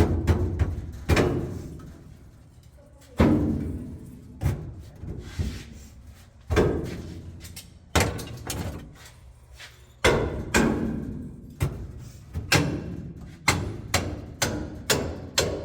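A series of heavy thuds, each ringing out for about a second, spaced out at first and coming faster, about two a second, in the last few seconds.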